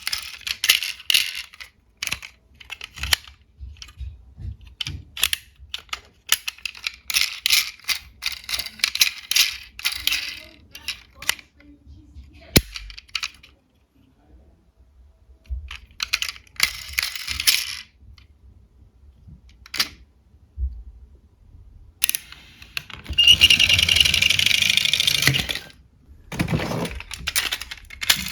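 Small diecast toy cars clinking and rattling as they are handled and rolled, in scattered clicks and several stretches of rattling, the longest near the end.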